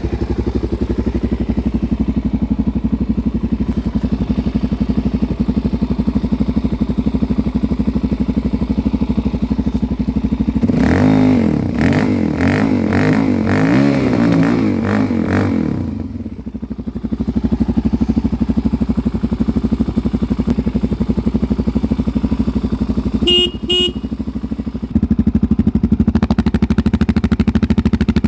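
Suzuki DR-Z400's single-cylinder four-stroke engine idling. It is revved several times in quick blips around the middle, then settles back to idle. Two short horn beeps sound a few seconds before the end.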